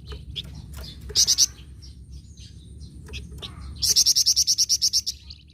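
Songbird of the kind Indonesian bird keepers call 'flamboyan' singing in full voice: scattered varied chirps, a loud cluster of high notes about a second in, and a fast trill of about a dozen sharp, evenly spaced notes near the end.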